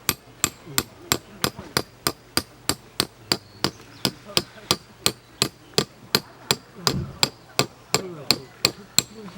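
Steady hammering, about three strikes a second, each with a short metallic ring: a hammer driving tent pegs into the ground.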